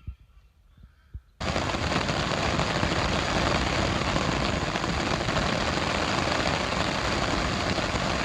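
A few faint bird chirps and low knocks, then about a second and a half in a sudden loud, steady rush of wind buffeting the microphone, which cuts off suddenly.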